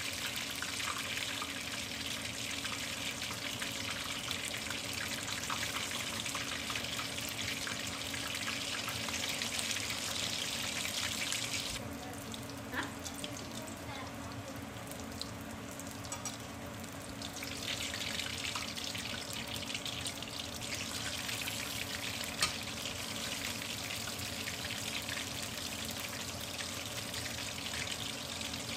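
Tiny-shrimp batter fritters deep-frying in hot oil in a stainless steel wok: a steady sizzle that eases off for a few seconds about twelve seconds in, then picks up again, with a couple of light clicks.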